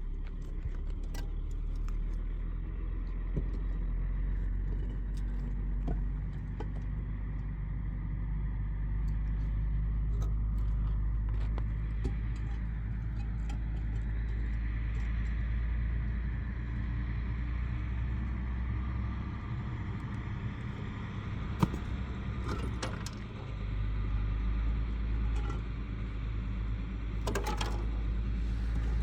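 A steady low rumble with scattered sharp clicks and jangling, metallic rattles, the rumble easing for a few seconds about two-thirds of the way through.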